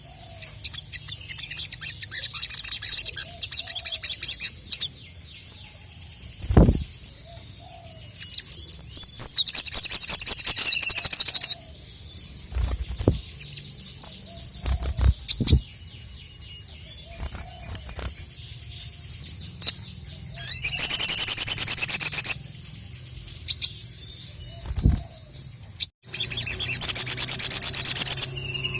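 Sogon (sogok ontong, crimson sunbird) singing: four loud bursts of fast, high, rattling trills, each about two seconds long, with scattered thin chirps between them. A few short low thumps fall between the bursts.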